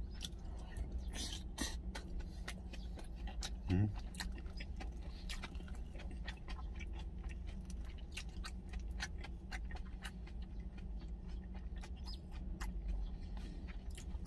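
A man chewing a mouthful of food close to the microphone: a run of small wet clicks and smacks, with a short hummed 'mm' about four seconds in, over a steady low hum.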